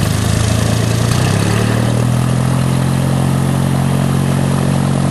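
Geo Metro three-cylinder car engine on a homebuilt autogyro, just started and running steadily; about a second and a half in it speeds up a step and then holds at the higher speed.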